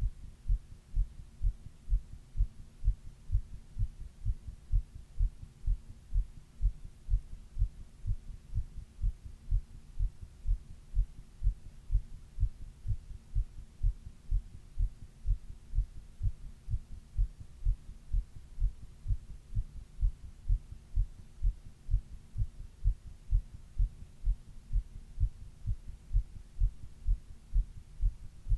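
A person's heartbeat: steady, regular low thumps, with a faint steady hum underneath.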